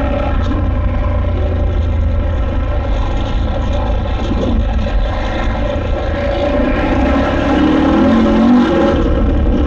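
KTM 890 Adventure R's parallel-twin engine running under way on a trail ride, its note steady and then a little louder about seven seconds in.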